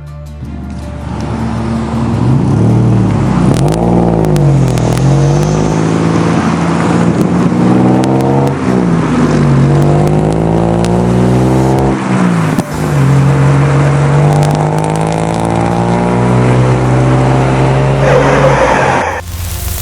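An engine revving up and down over and over, its pitch sweeping up and falling back several times. It cuts off suddenly near the end.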